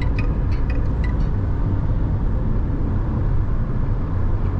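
Steady road and engine rumble inside the cabin of a Nissan Tekton cruising on the highway.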